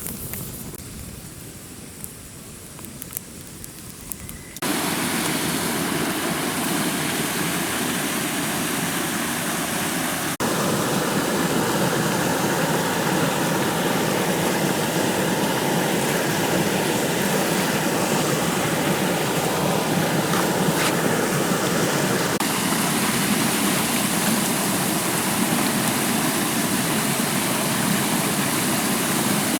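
Steady rushing water, a loud even hiss, which starts abruptly about four and a half seconds in and shifts level suddenly twice, as at cuts between shots. Before it, a few quieter seconds with small clicks and rustles.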